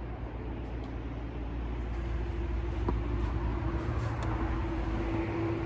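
A steady low rumble with a droning hum that swells toward the end, and a couple of faint short knocks.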